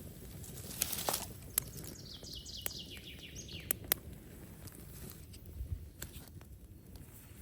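A songbird singing a quick run of high notes that fall in pitch, about two seconds in, over faint woodland background noise, with a few sharp clicks scattered through.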